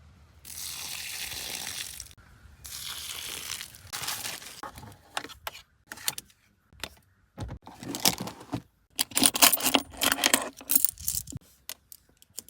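Car-interior cleaning sounds: two steady hissing passes in the first four seconds, like spraying or wiping, then a run of clicks, clinks and rustles as small items are handled.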